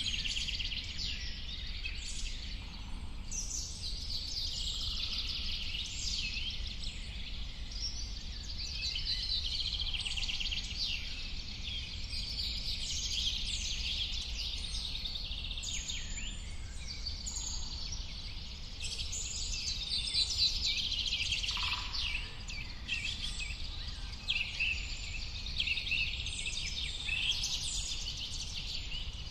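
Many birds singing and chirping at once, a dense chorus of overlapping trills and short calls, over a steady low rumble.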